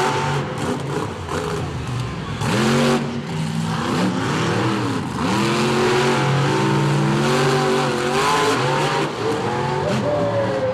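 Monster truck engine revving hard, its pitch surging and dropping again and again as the throttle is worked.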